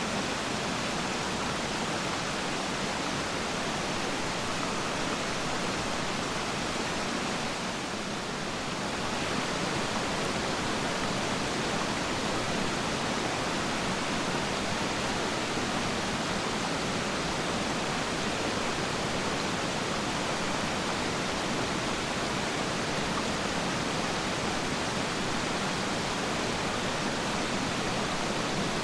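Rushing water of Peiran Falls, a steady dense roar with no breaks; the level dips slightly about eight seconds in, then holds a little louder.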